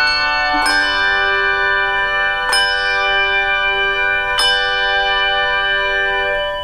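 Bells ringing sustained chords, a new chord struck about every two seconds and left to ring; the music cuts off suddenly near the end.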